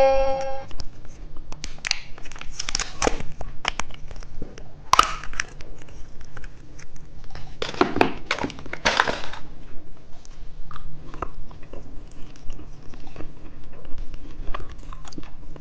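Plastic candy packaging crinkling and tearing as it is opened, in irregular bursts with small clicks between them. The loudest rustles come about three, five and eight to nine seconds in.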